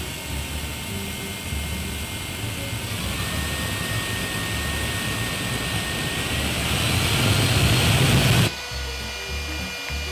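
Homemade bladeless jet engine running: a steady rushing noise with high whine tones that builds louder for about eight seconds, then drops abruptly.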